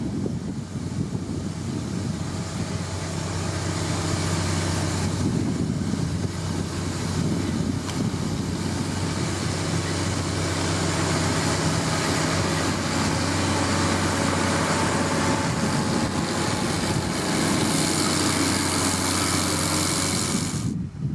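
Heavy motor grader's diesel engine running steadily under work.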